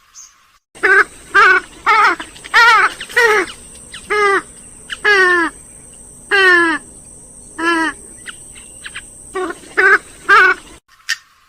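Grey-headed swamphen calling: about a dozen loud, short calls in an uneven series, each sliding down in pitch.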